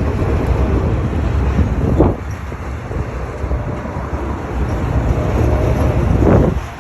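Freight train of autorack cars rolling past, a steady low rumble of wheels on the rails with two brief louder surges, about two seconds in and again near the end.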